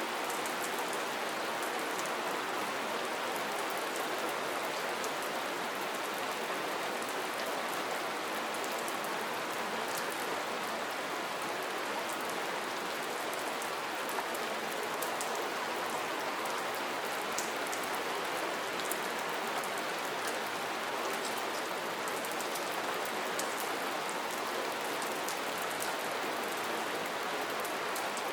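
Steady rain falling, an even hiss with many small drops pattering and ticking.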